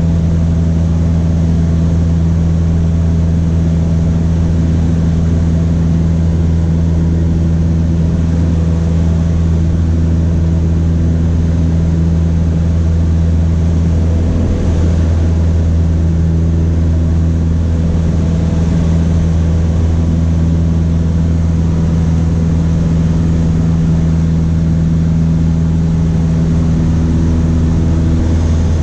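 Cessna 152's four-cylinder Lycoming engine and propeller running steadily, a constant low drone.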